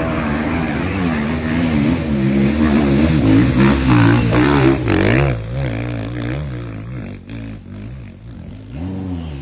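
Motocross bike engines revving hard, the pitch rising and falling with the throttle. Loudest about four to five seconds in, then fading, with one more rev swelling near the end.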